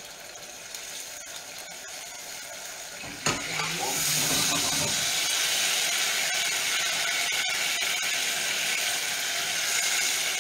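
Food sizzling in pans on a gas hob. A softer hiss is broken by a sharp knock about three seconds in, and then a louder, steady crackling sizzle follows.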